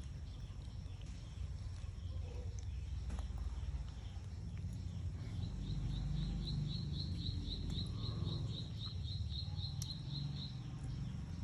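A low, steady outdoor rumble. From about five seconds in comes a fast, even run of short high chirps, about four a second, which stops shortly before the end.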